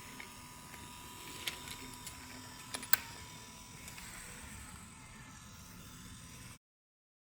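Battery-powered wooden toy train running on wooden track: a steady small-motor whir with a few sharp clicks. It cuts off suddenly near the end.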